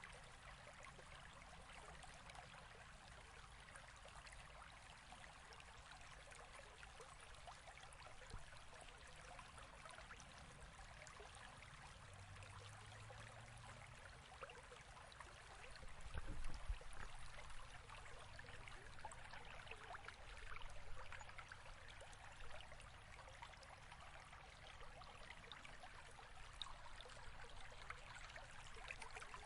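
Near silence: a faint steady hiss, with one brief low thump about sixteen seconds in.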